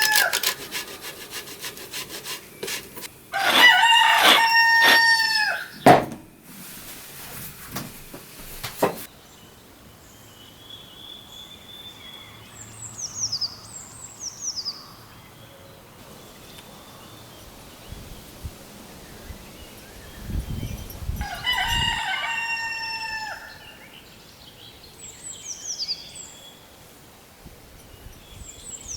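A rooster crowing, two long crows about 18 seconds apart, with small birds chirping in between. A rasping noise runs for about three seconds after the first crow.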